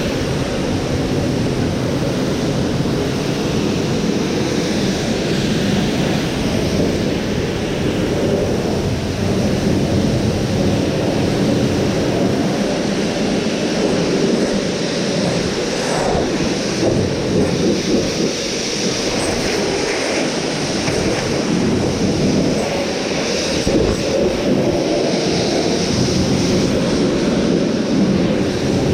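Pressure washer running, its water jet spraying against a fibreglass truck camper shell: a loud, steady rushing hiss that swells and eases as the spray moves.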